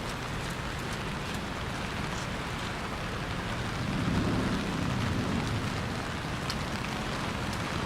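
Steady hiss of rain in a city street with scattered light drip ticks. A low vehicle rumble swells about halfway through and fades.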